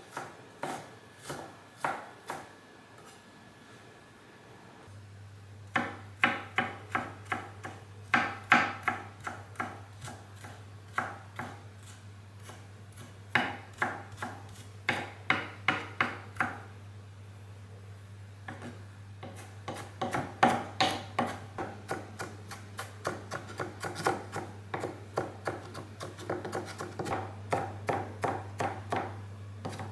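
Knife chopping on a cutting board in quick runs of strokes, about three to four a second, with short pauses between runs.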